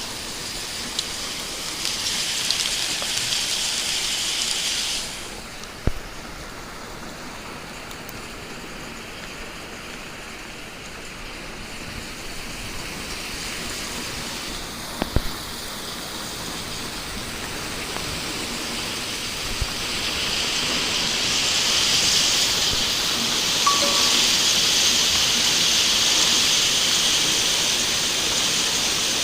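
Heavy rain and rushing storm runoff, a steady hiss that drops in level about five seconds in and swells again from about twenty seconds, with two sharp knocks along the way.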